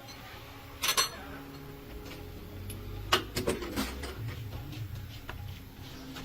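Sharp metallic clicks and clatter, like hand tools or metal parts being picked up and set down: a double click about a second in, then a quick run of clinks around three seconds in.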